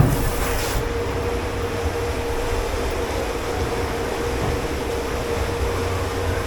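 Steady hum of kitchen machinery with one constant tone and a low rumble. A knock comes right at the start, and a high hiss stops just under a second in.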